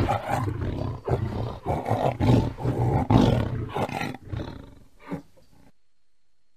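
Tiger roaring: a loud opening roar followed by a run of shorter pulsing calls that weaken over about four seconds, with one last short call just after, before the sound stops a little past halfway through.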